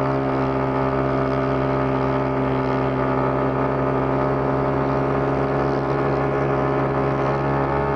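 Motorcycle engine running steadily at a constant cruise, its pitch holding almost level throughout.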